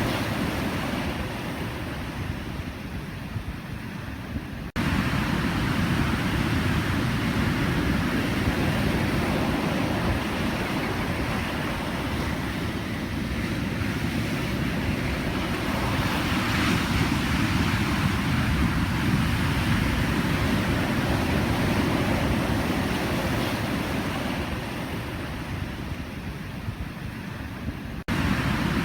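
Pacific Ocean surf: a continuous rumbling wash of waves, with one wave breaking more brightly about halfway through. The level jumps up abruptly twice, near five seconds in and near the end.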